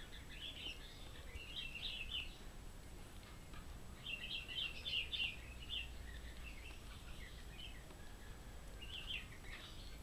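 Small songbirds chirping in quick runs of high notes, three spells of it, over a faint steady low rumble.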